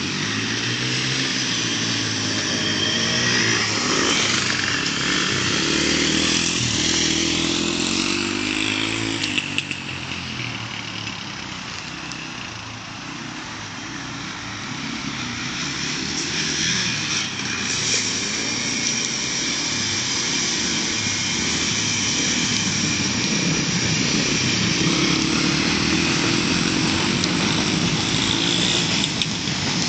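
Motorbike engines revving up and down as the bikes ride. They fade somewhat about a third of the way in, then grow louder again.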